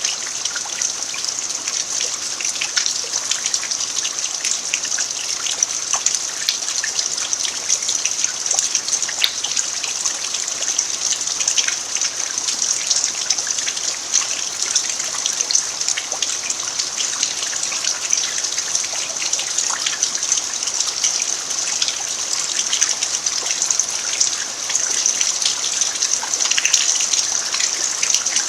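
Steady rain falling on a dirt yard, an even hiss with many separate drops ticking throughout.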